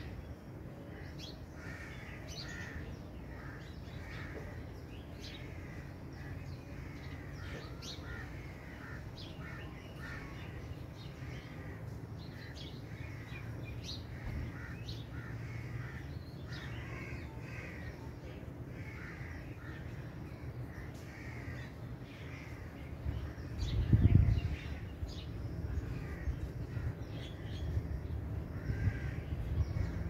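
Birds calling over and over in short calls, crow-like caws among them, over a low steady rumble. A loud low thump about 24 seconds in.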